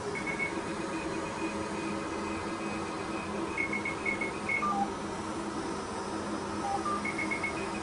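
Fraxel Repair CO2 laser beeping in short runs of quick, high beeps, with a few lower single tones, as it fires over the skin. A steady hum runs underneath.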